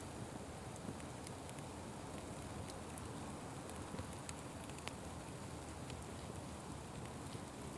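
Open fire burning with a steady hiss, broken by scattered sharp crackles and pops.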